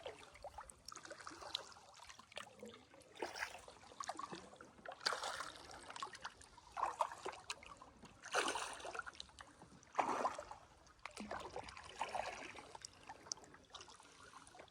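Kayak paddling: paddle blades dipping and pulling through the water, with splashes and dripping in uneven swells every second or two.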